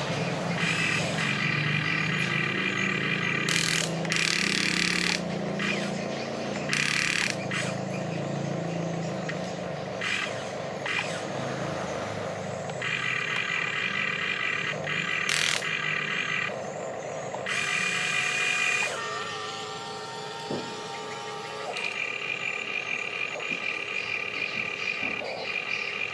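Electric motors and gearboxes of a radio-controlled model bulldozer whining, starting and stopping in spells of a few seconds, with several brief noisy bursts in between.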